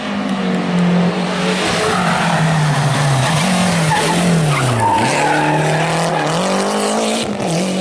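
Historic rally car driven hard, its engine pitch rising and falling several times as it shifts and lifts off, dipping lowest about five seconds in, with tyre noise.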